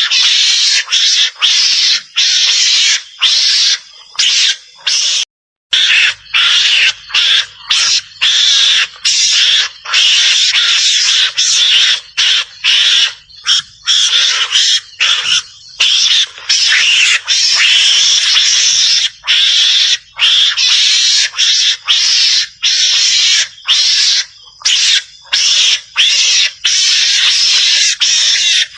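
Recorded call of a Javanese mongoose (garangan), played as a hunting lure. It is a loud, noisy, high chattering that runs on in short pieces broken by brief gaps several times a second, with one sudden full break about five seconds in.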